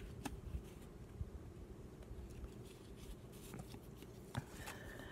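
Faint handling of paper cards and craft items: a few soft taps and rustles over low room hum.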